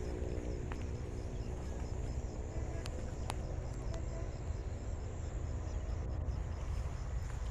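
Outdoor rural ambience: a steady low rumble with a faint high insect chirping at an even pace of a few chirps a second.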